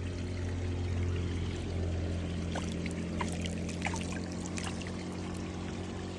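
Water pouring and running steadily over a steady low hum, with a few short high chirps in the middle.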